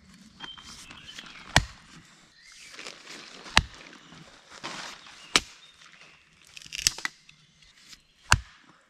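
Axe chopping wood: five sharp strikes about every one and a half to two seconds, with faint rustling between them.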